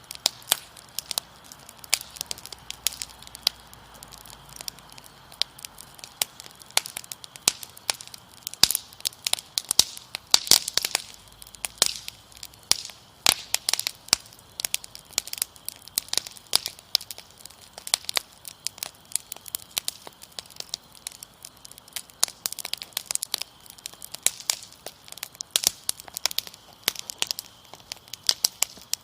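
A wood fire crackling and popping: a dense, irregular run of sharp snaps. Beneath it, a faint steady high trill of crickets.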